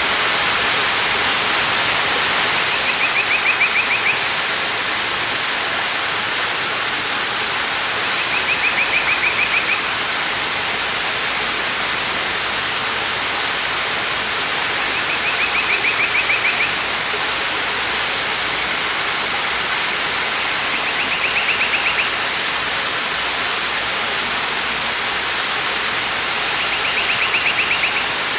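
Waterfall pouring in a steady rush of water. A bird's high, rapid trill repeats five times, about every six seconds, over the rush.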